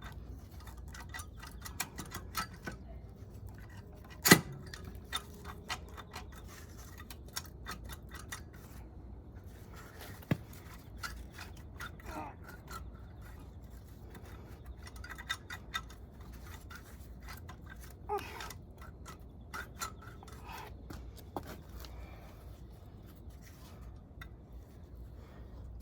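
Scattered small metallic clicks and taps of hand tools and engine parts being handled during a motorcycle engine teardown, with one sharp knock about four seconds in.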